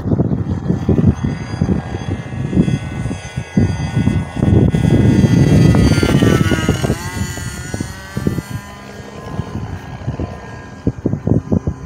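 SK .50 two-stroke glow engine on a radio-controlled model airplane in flight, with its stock muffler and a 10x7 two-blade prop. The engine's buzz rises in pitch as the plane approaches, then falls sharply about seven seconds in as it passes and flies away. Gusty wind rumbles on the microphone throughout.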